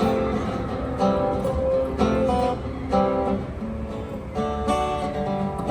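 Acoustic guitar strummed, with chords struck about once a second and a few quicker notes near the end.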